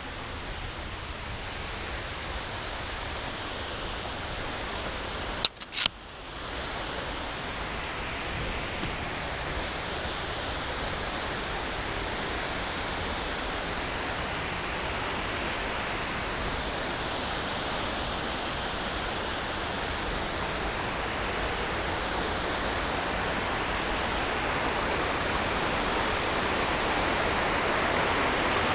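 Mountain river water rushing over rocks, a steady rushing that grows gradually louder. A couple of sharp clicks and a brief dropout about five and a half seconds in.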